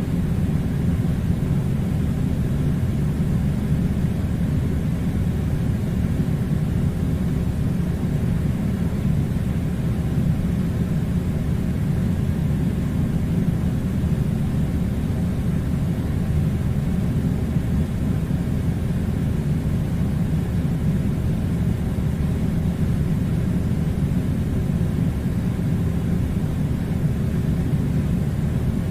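Steady low rumbling hum of an air conditioner blowing cold air, even and unchanging throughout.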